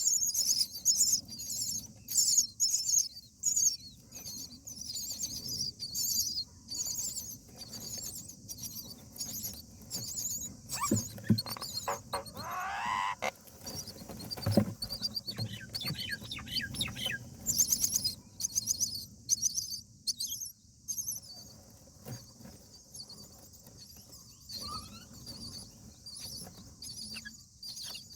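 Indian myna nestlings giving high, squeaky begging calls in fast runs, with a rising call about twelve seconds in and a couple of knocks from movement in the nest near the middle. The calls thin out in the last third.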